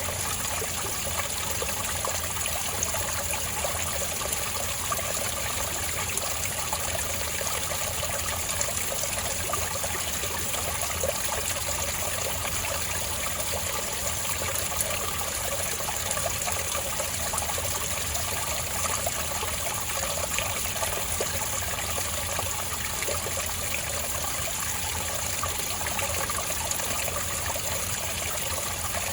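Spring water trickling and babbling steadily over rocks, with a dense patter of small splashes.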